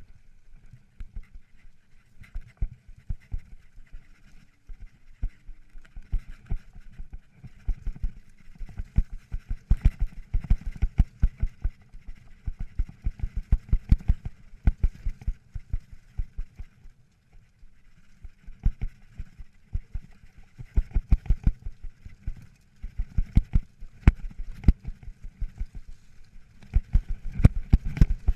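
Mountain bike rattling and jolting over roots and rocks on rough singletrack: rapid, irregular low thumps and knocks through a mounted action camera. A faint steady hiss or buzz runs underneath.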